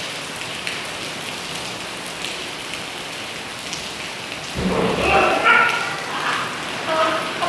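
Heavy rain falling steadily. About four and a half seconds in, a brief low rumble and a voice come in over it.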